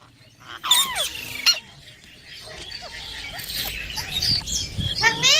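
Baby green parrot squawking and chirping: a few sharp squawks about a second in, softer chatter after them, then a loud rising call near the end.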